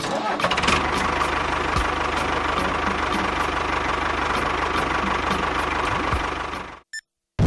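Small engine of a miniature DIY construction machine running steadily with a faint regular ticking. It stops suddenly near the end.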